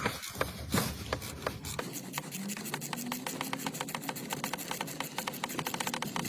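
Hand ratchet wrench clicking: a few clicks a second at first, then a steady run of about ten a second from around two seconds in, as a bolt is worked.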